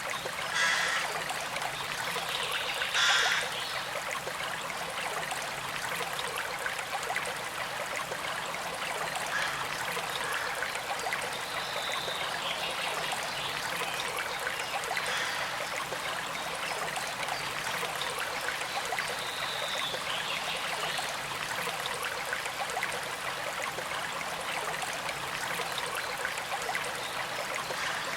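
A small creek flowing and trickling steadily. The water is briefly louder twice in the first few seconds.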